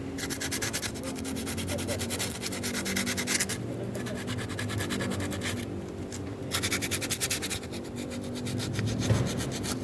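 Sandpaper rubbed in fast back-and-forth strokes along the edge of a car brake pad, in three bouts with short pauses and lighter strokes near the end. The pad's sharp edge is being sanded flat so it stops eating into the brake disc, the cause of the brakes squealing.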